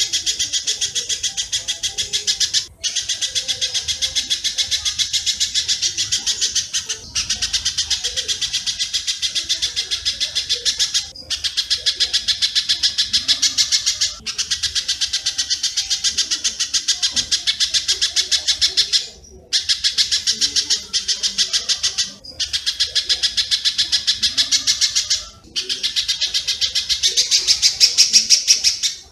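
Masteran bird-training recording of spiderhunter (pijantung) and swiftlet (walet) calls: a dense, rapid chatter of about ten sharp high notes a second, in phrases a few seconds long broken by brief gaps. It grows louder near the end.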